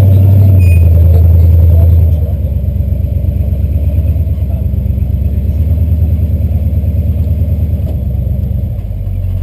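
Jeep CJ7 Renegade's V8 engine and exhaust running with a deep, steady rumble, loudest for the first two seconds, then easing back and holding a lower, pulsing note.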